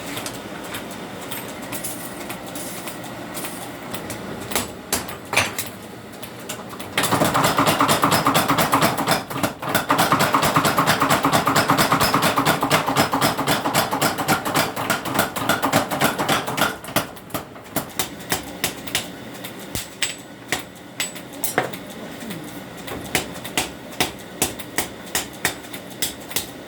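Blacksmith forging sickle steel: after a few scattered knocks, a run of rapid mechanical hammer blows lasts about ten seconds, then gives way to single hammer strikes about two a second. A steady machine hum runs underneath.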